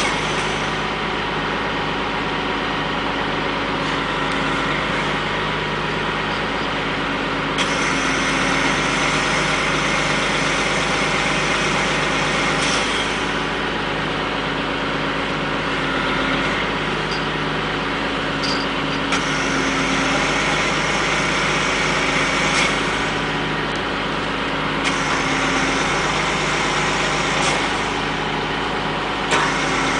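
Heavy machinery engines running steadily, with a few short clicks and knocks.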